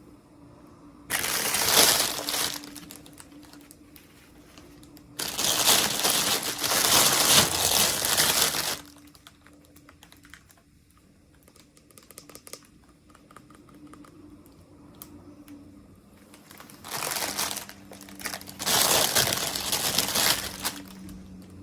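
Plastic packaging crinkling as a miniature toy is unwrapped by hand, in four loud bursts with quieter rustling and handling between them.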